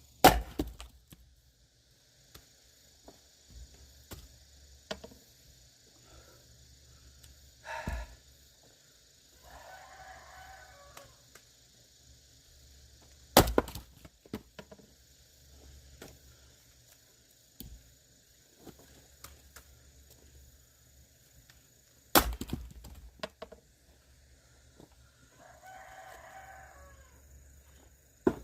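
Firewood being split with an axe: a few sharp cracks of the blade striking and splitting wood, spaced several seconds apart. A rooster crows twice in the background.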